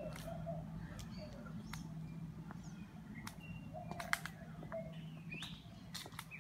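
Several birds chirping and calling in a garden: short scattered chirps, quick whistled glides and sharp ticks, over a steady low hum.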